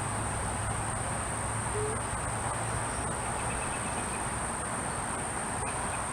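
Steady high-pitched insect chirring, like crickets, over a low rumble that fades away about three and a half seconds in.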